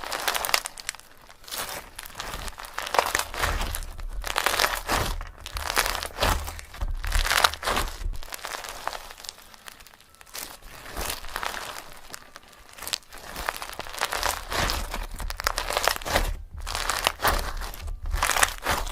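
Crinkling and rustling in irregular bursts, like paper or plastic being handled or dug through, with low bumps underneath.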